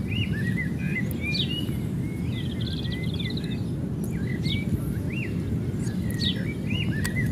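Birds chirping in short repeated notes, with a brief trill about halfway through, over a steady low background rumble.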